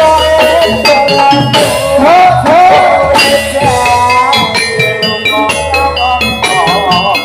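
Javanese gamelan music played loud through a sound system: many rapid strokes on tuned metal keys over low bass notes, with a wavering melodic line that bends up and down through the middle of the passage.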